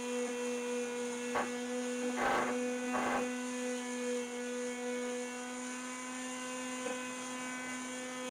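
Steady electrical hum with a pitched buzz and its overtones. A click comes about a second and a half in, then two brief rustling scrapes, and another faint click near the end.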